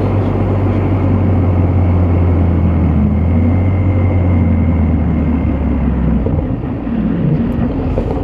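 BMW M235i's turbocharged straight-six engine running under steady power with a low drone, easing off about six seconds in.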